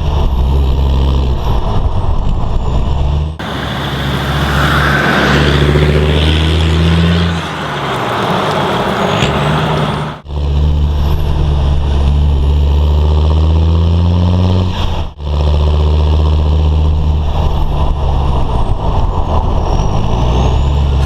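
Land Rover Defender Td5's 2.5-litre five-cylinder turbodiesel running loud through a straight-through exhaust with the centre silencer removed. The engine note rises and falls in several short takes that cut off abruptly three times.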